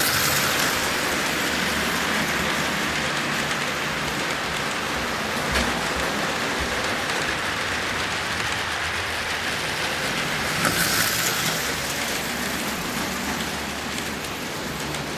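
HO-scale electric slot cars running on plastic track: a steady hissing whir of the small motors and pickup shoes. A brief louder rush about eleven seconds in.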